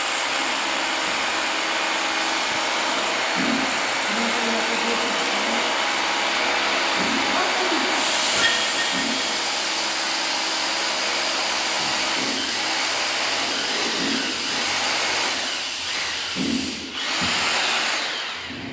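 Machinery of a rail-type precast concrete production line running, a steady loud hiss with a faint hum underneath, which changes slightly about halfway through and dips briefly near the end.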